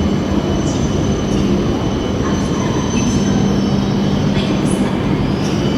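A train running on rails: a steady, loud rumble with a low hum and thin high-pitched whines on top.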